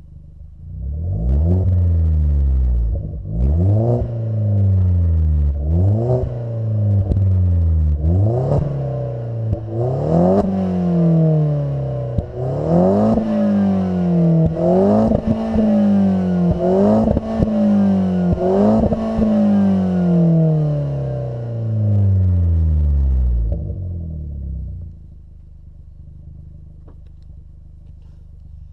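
Opel Corsa OPC's turbocharged 1.6-litre four-cylinder, fitted with a 3-inch downpipe and an aftermarket Duramas exhaust, revved about ten times in quick succession, each rev climbing sharply and falling back, with sharp pops and crackles as the revs drop in the middle stretch. It settles back to a quieter idle near the end.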